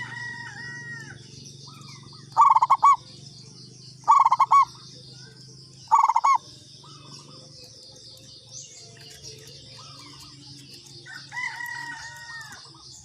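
Zebra dove (perkutut) cooing: three loud phrases of quick notes, about two seconds apart, with softer bird calls at the start and near the end. A steady high insect chirring runs underneath.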